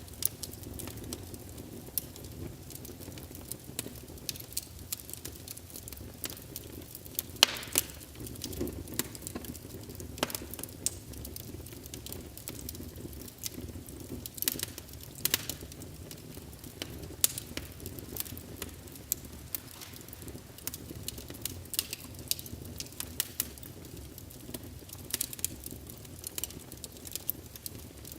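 Wood fire burning in a fireplace, crackling with irregular sharp pops over a steady low rumble of the burning logs; the loudest pop comes about a third of the way in.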